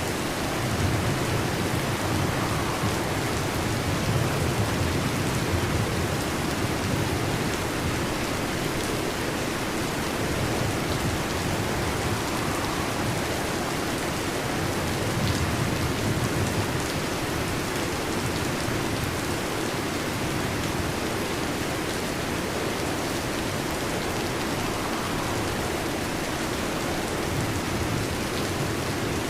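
Heavy rain falling steadily, with low rolls of distant thunder swelling and fading a few times.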